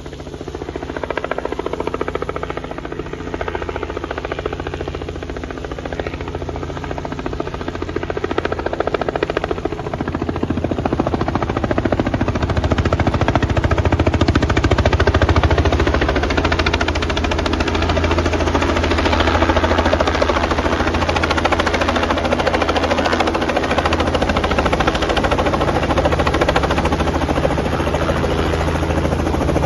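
Robinson helicopter in flight: steady low rotor thrum under engine noise, growing louder over the first fifteen seconds or so, then holding steady.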